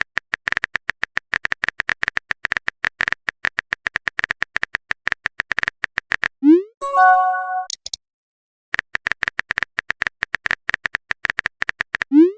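Rapid typing clicks from a chat-app sound effect, about ten a second. They stop about six seconds in, followed by a quick rising swoop and a short chiming pop of a message being sent. After a short pause the typing clicks start again and end in another rising swoop near the end.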